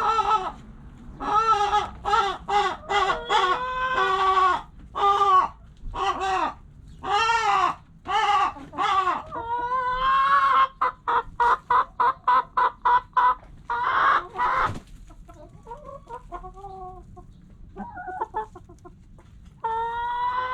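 Chickens clucking and calling: a string of loud, arching squawks, then a quick run of short clucks at about three or four a second. The calls turn quieter for a few seconds near the end before loud calling starts again.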